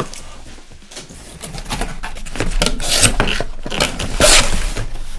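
Cardboard shoe box being opened and its contents handled: a run of rustling and scraping noises that starts after a quiet second or so, with the loudest strokes about three and four seconds in.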